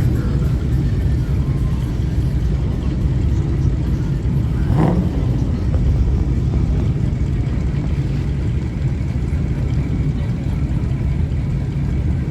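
Vehicle engine running with a steady low rumble, and a brief louder swell about five seconds in.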